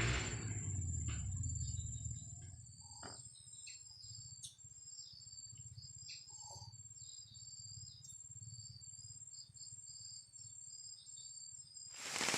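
Faint steady high-pitched insect trill with scattered short chirps of birds or insects. Near the end, heavy rain suddenly sets in.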